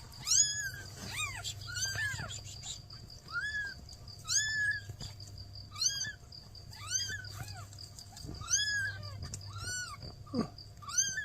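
Newborn kittens mewing: short, high-pitched cries repeated roughly once a second, with several kittens crying over one another near the start.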